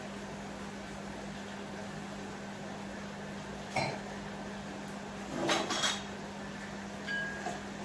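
Kitchen utensils clinking against pots and dishes, three short ringing clatters with the loudest a little after halfway, over a steady low hum.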